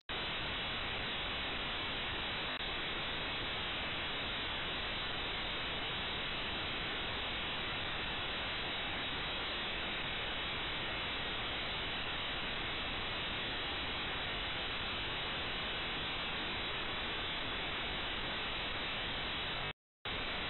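A steady, unchanging noise with no speech, cutting out for a moment near the end.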